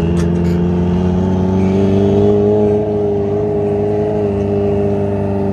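A car engine held at steady revs under throttle, its pitch rising a little about two seconds in.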